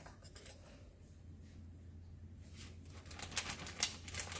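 Soft rustling and several sharp clicks as the container of seasoned flour is handled, starting about two and a half seconds in after a near-quiet start.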